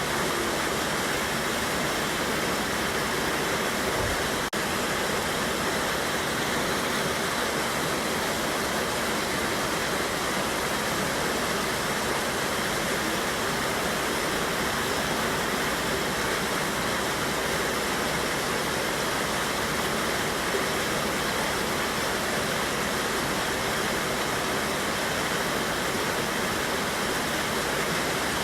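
A river waterfall rushing steadily, an even, unbroken wash of falling water.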